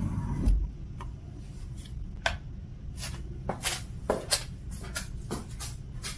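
A string of light, irregular clicks and taps of small objects being handled, over a low steady room hum.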